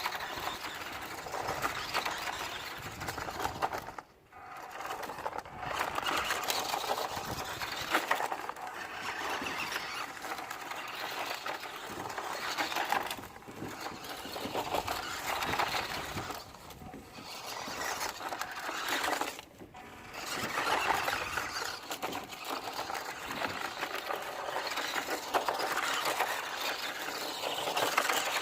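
WPL D12 1:10 RC drift truck driving, its small electric motor and drivetrain running with the sound surging and falling away as the throttle is worked, dropping off briefly twice, about four and about nineteen seconds in.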